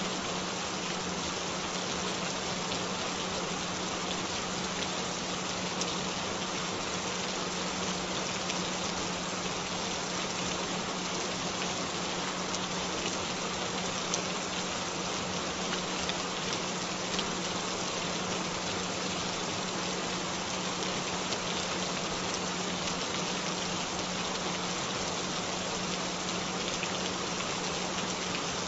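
Steady rain falling, an even unbroken patter, with a continuous low tone running underneath it: a frequency track meant to be heard on headphones.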